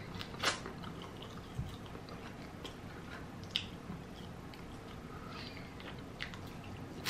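Close-up mouth sounds of a person biting and chewing bone-in fried chicken eaten by hand: soft, faint chewing with scattered small clicks, and two sharper snaps, about half a second in and again after three and a half seconds.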